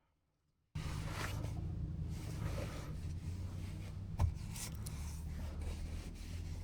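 Rubbing and handling noises over a steady low hum, starting suddenly just under a second in, with a sharp click about four seconds in.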